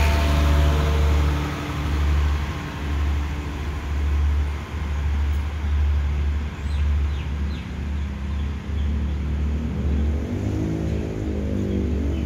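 A passenger train pulling out and rolling away along the track, a steady low rumble.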